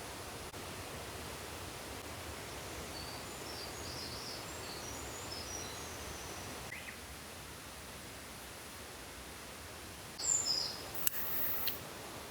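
Steady wash of water noise, with small birds chirping in a short run of high notes around the middle and again near the end, and a couple of sharp clicks near the end.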